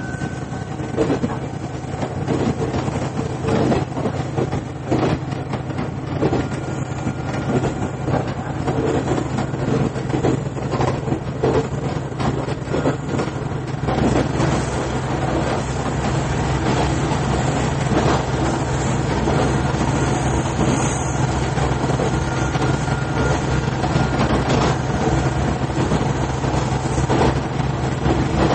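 Running sound inside a KiHa 110 series diesel railcar: a steady low engine drone with wheels clicking over rail joints. From about halfway it runs louder and steadier.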